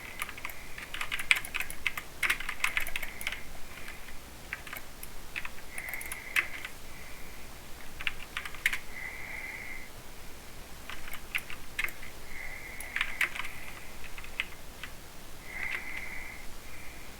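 Typing on a mechanical keyboard with Cherry MX Silver linear speed switches: irregular runs of quick key clicks broken by short pauses.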